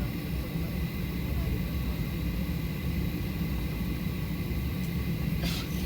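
Steady low cabin rumble of a Boeing 737-800 on the ground after landing, with a thin steady whine above it and a short hiss near the end.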